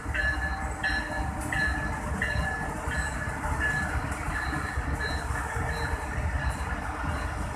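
Pakistan Railways passenger train rolling past along a station platform: a steady rumble of wheels on track, with a short high chirp repeating about every three quarters of a second that fades near the end.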